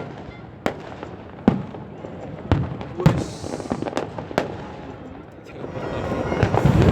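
Fireworks bursting: single sharp bangs at irregular intervals of about half a second to a second, then from about two-thirds of the way in a louder, denser run of many bursts crackling together.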